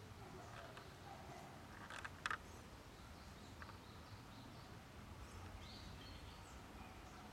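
Quiet forest ambience with faint bird chirps, and a couple of sharp clicks about two seconds in.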